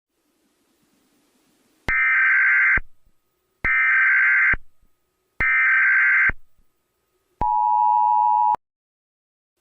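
Electronic alert tone: after about two seconds of silence, three identical high beeps, each just under a second long and about 1.75 s apart, then a lower, slightly longer steady tone that cuts off sharply.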